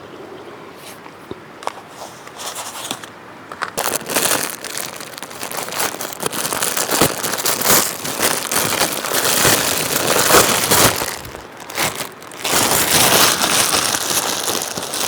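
Close, loud crinkling and crumpling handling noise with many small crackles, building up about four seconds in and dropping off briefly near the end before starting again.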